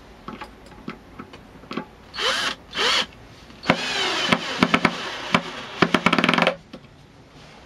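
Cordless drill driving a screw into wood: two short bursts, then a longer run of about three seconds in which the motor slows and ends in rapid clicking. The drill's battery is low, so it struggles to sink the screw even into a pilot hole.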